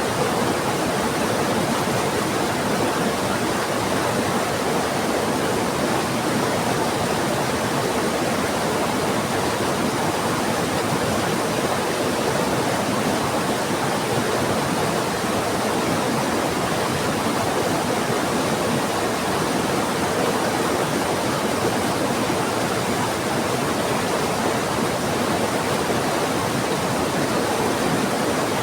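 Heavy rain falling together with a fast-flowing river rushing, a steady even wash of water noise with no thunder.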